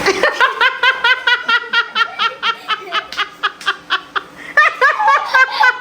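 Someone laughing in rapid, even, high-pitched bursts, about four a second, with a brief break about four seconds in before the laughter picks up again louder.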